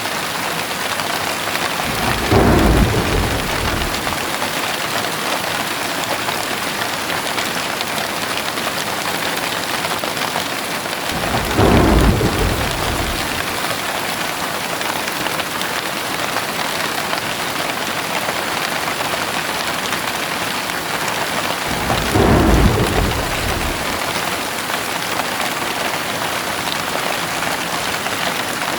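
Heavy rain falling steadily, with three low rumbles of thunder about ten seconds apart, each lasting about two seconds.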